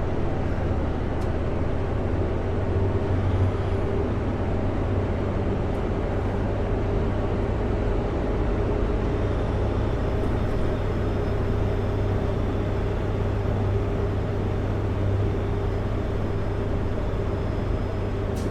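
Kenworth W900L semi-truck's diesel engine running steadily at cruise with road noise, a constant low drone that does not change in pitch.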